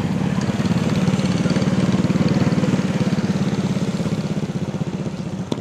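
A vehicle engine idling close by with a fast, even pulsing, growing slightly louder toward the middle and easing off near the end.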